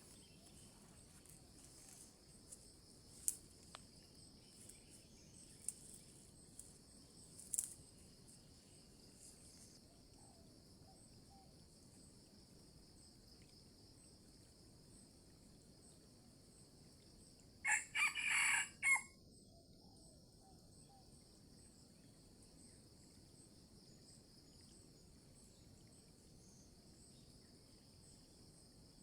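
A junglefowl rooster crowing once, a short crow of just over a second broken into a few parts, over a steady high drone.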